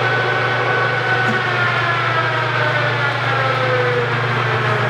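Kearney & Trecker 205-SA horizontal milling machine running under power: a steady motor hum with a gear whine whose pitch drifts slowly lower.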